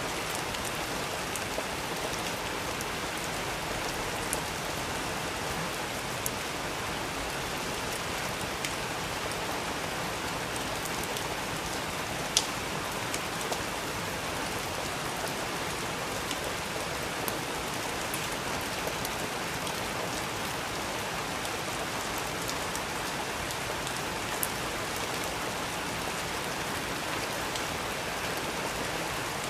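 Steady rain with scattered sharp ticks standing out here and there, the loudest about twelve seconds in.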